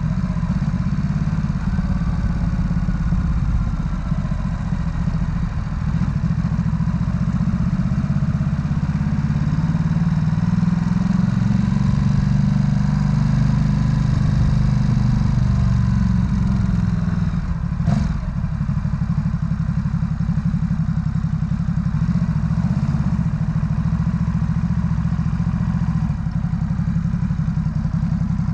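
Ducati Supersport S's L-twin engine running at low speed on a slow ride, slowing to walking pace near the end. A single sharp click comes about two-thirds of the way through.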